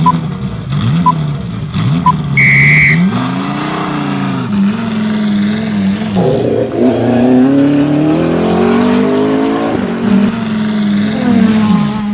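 Car engine sound effects revving up and down over and over, with a long rising rev in the second half. A short, high honk-like tone sounds about two and a half seconds in.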